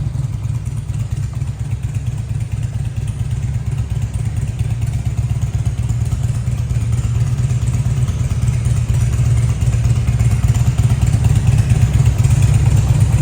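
2003 Harley-Davidson Ultra Classic's fuel-injected Twin Cam 88 V-twin idling through a Rinehart exhaust. It is a steady, deep rumble that grows slightly louder toward the end.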